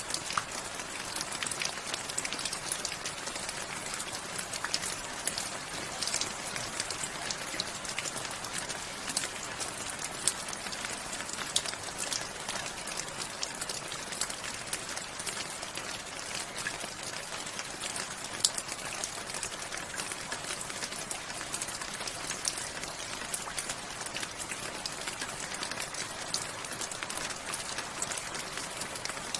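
Steady rain falling, a continuous hiss with many individual drops pattering close by on a hard surface.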